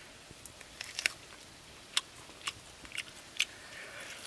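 A person biting into and chewing roasted meat with an open mouth. A string of sharp, wet crunches and smacks comes irregularly, about seven in all, the loudest about one and two seconds in.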